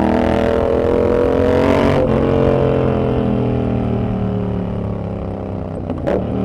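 Yamaha XSR700's parallel-twin engine through a Kelpi short full exhaust, accelerating with a rising pitch; about two seconds in the throttle closes and the engine winds down, its pitch falling steadily. A brief sharp click near the end.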